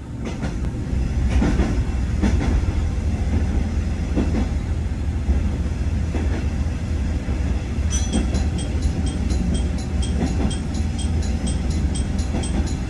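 Matsuura Railway diesel railcar running through a tunnel: a steady low rumble with a few clacks of the wheels over rail joints. A light, even ticking joins about eight seconds in.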